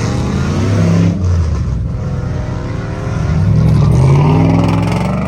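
A car engine revving hard, its pitch rising twice, the second and loudest rise around four seconds in.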